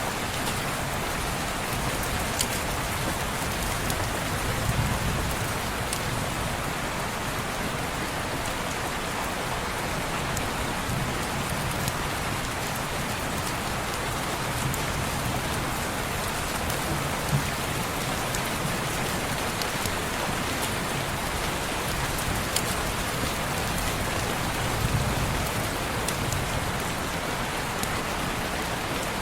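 Steady rain falling on a window, with a few scattered sharp ticks.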